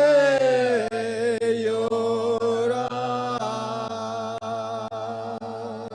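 Unaccompanied canto cardenche singing: voices hold a long final chord, sliding slightly down in pitch at first, then sustained and slowly growing quieter.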